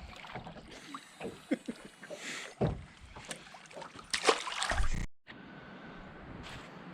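Scattered knocks, clicks and light splashy rustles of handling in a plastic fishing kayak, then a sudden cut to a steady faint hiss about five seconds in.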